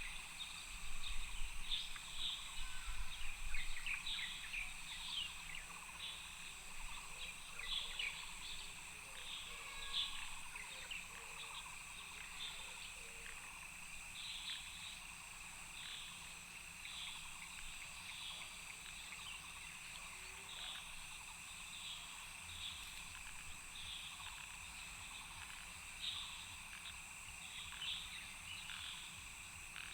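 Outdoor nature ambience: a steady high-pitched insect drone, with short chirping calls repeating about once a second. A low rumble sits under the first few seconds.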